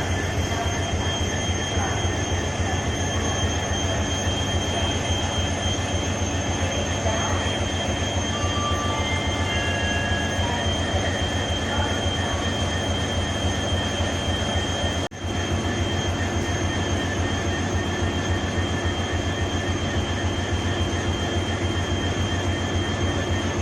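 Idling EMD WDP4D diesel locomotives, two-stroke EMD engines giving a steady, unbroken hum with a thin high whine over it. The sound cuts out for an instant about fifteen seconds in.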